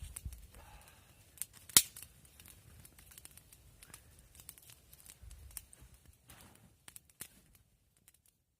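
Small wood campfire crackling, with irregular snaps and pops from the burning wood and one loud crack about two seconds in. The sound stops near the end.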